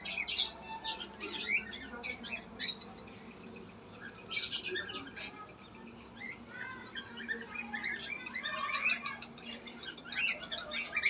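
A group of caged birds chirping and squawking, many short calls overlapping, with louder flurries now and then.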